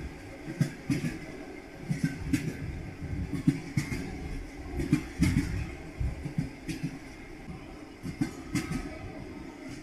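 Train wheels knocking over rail joints, with a steady rumble of the moving train underneath. The knocks come often and unevenly rather than in one clean beat.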